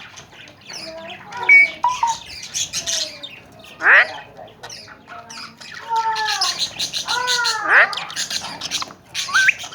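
Alexandrine parakeets calling: a run of harsh squawks and screeches mixed with sharp rising calls and arching whistled notes, the birds' calls overlapping in places.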